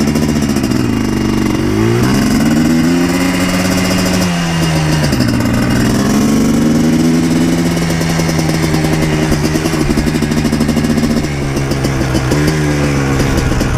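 Yamaha Blaster 200 quad's single-cylinder two-stroke engine running under way, its pitch climbing and holding, then dropping and climbing again several times as the rider opens and eases the throttle.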